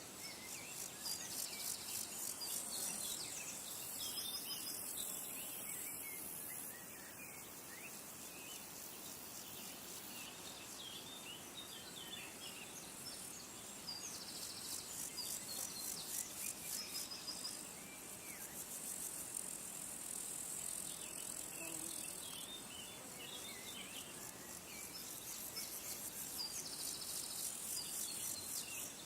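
Insects trilling in a high, pulsing drone that comes and goes in stretches of several seconds, with many short bird chirps scattered through it.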